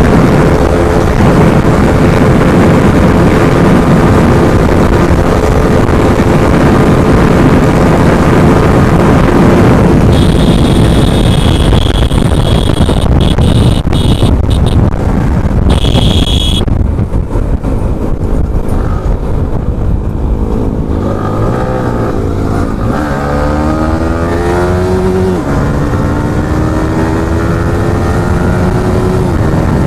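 Yamaha R15M's 155 cc single-cylinder engine running hard at speed under heavy wind noise on the microphone. Near the end it revs up in rising sweeps, the pitch dropping back between them as it shifts up a gear.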